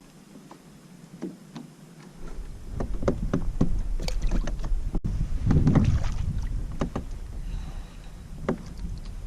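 Sounds aboard a kayak on the water: scattered knocks and clicks of gear against the hull over the sound of water, with a steady low wind rumble on the microphone starting about two seconds in.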